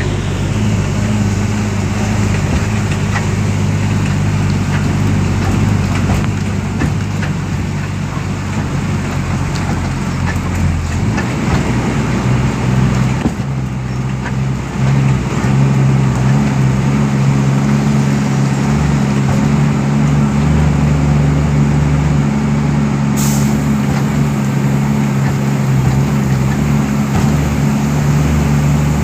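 Heavy diesel engine of mining machinery running steadily. Its note changes and grows louder about halfway through, and a short hiss of air comes about two-thirds in.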